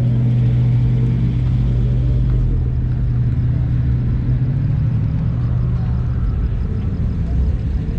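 A car engine idling with a steady low drone.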